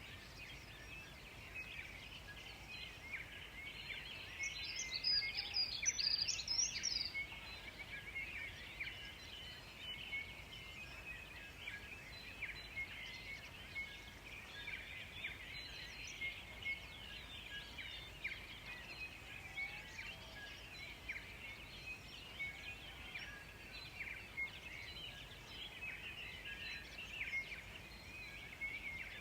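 Forest birds singing, many short chirps overlapping throughout, with one louder, higher, rapid song phrase about five seconds in.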